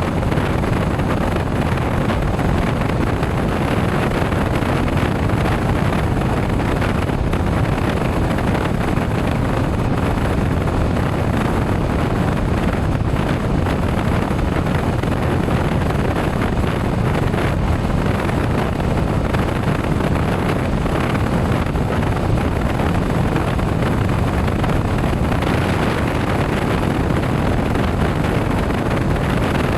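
Steady wind rush over the microphone on a moving motorcycle, with the engine and road noise blended in underneath.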